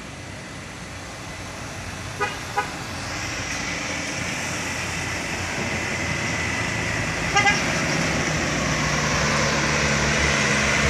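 A heavy truck's engine drawing closer and growing louder as it labours up a steep climb. Horn toots are heard: two short ones about two seconds in, and a quick double toot midway.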